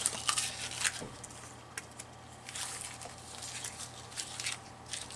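Cut paper scraps rustling and crinkling as they are gathered up and cleared off a work surface, with scattered light ticks and taps.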